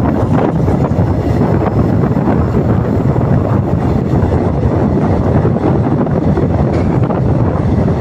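Express passenger train running at speed, a steady loud rumble with wind buffeting the microphone.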